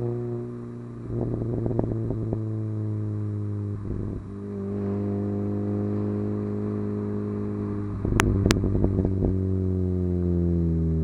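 Hartge MINI's engine running at steady revs through a Hayward & Scott exhaust, with bursts of crackling from the exhaust about a second in, about four seconds in and around eight seconds in, and the engine note falling near the end as the revs drop.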